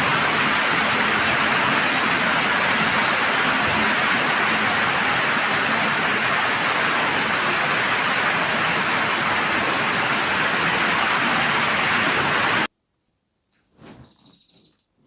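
Steady hiss of heavy rain that cuts off abruptly about thirteen seconds in, leaving near silence with a few faint small sounds.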